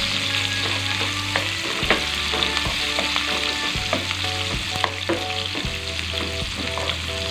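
Chunks of onion sautéing in oil in a nonstick frying pan: a steady sizzle, with the spatula knocking and scraping against the pan many times as the onion is stirred.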